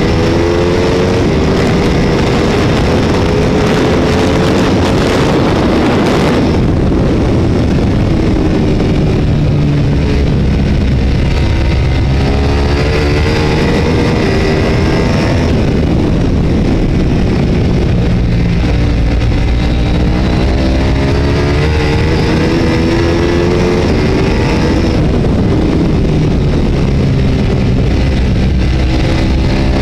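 Race motorcycle engine heard from onboard at racing speed, rising in pitch again and again as it accelerates through the gears and dropping away between, over heavy wind rush.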